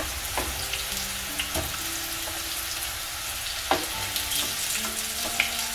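Corn tortilla tacos frying in hot oil in a skillet, with a steady sizzle. A metal spatula turning them clicks against the pan a few times.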